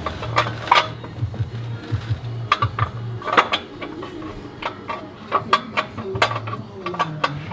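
Irregular sharp metal clicks and clinks of hand tools and hardware on the exhaust during the H-pipe install.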